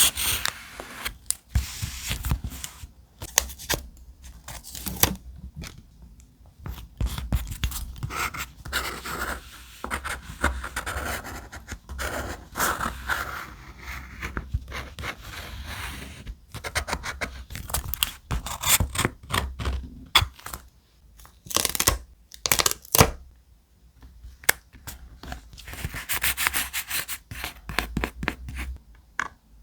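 Thick paper being handled and rubbed by hand: irregular rustling and scraping strokes with short pauses, and a few sharp crisp clicks a little past the middle.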